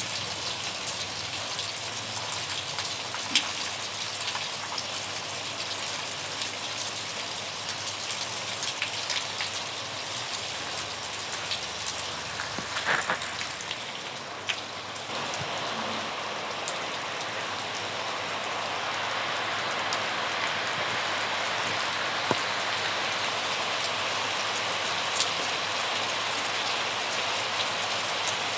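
Steady rain falling, an even hiss with scattered sharper drop impacts. There is a brief dip about halfway, after which the hiss is a little denser and more even.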